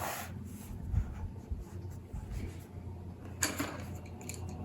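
Quiet tabletop handling sounds while colouring with pencils: a soft knock about a second in and a short scrape or rustle a little after three seconds.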